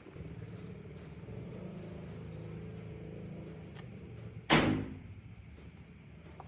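A low, steady mechanical hum for about four seconds, then a single loud knock, like a hard impact, that rings out briefly.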